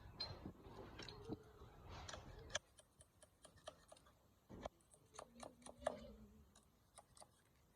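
Faint, scattered light clicks and taps, like small parts being handled, with some rustling over the first two and a half seconds.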